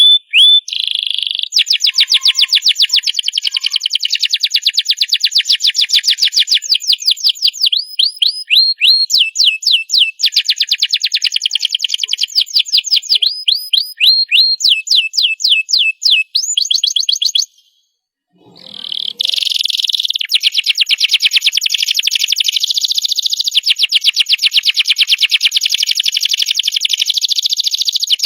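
Domestic canary singing long rolling trills of fast repeated notes, one phrase running straight into the next, with a short break about two-thirds of the way through before it starts up again.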